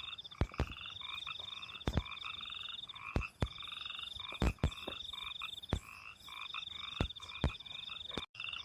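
A chorus of frogs calling from the rice paddies at night: a high pulsed trill over repeated short rising chirps and lower pulsed croaks. Loud sharp clicks come every half second to a second, and the sound cuts out briefly near the end.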